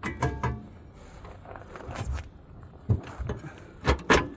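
Metal tools and parts clanking and knocking while working on a truck's steering: a few quick clanks with a brief metallic ring at the start, single knocks about two and three seconds in, and two loud knocks near the end.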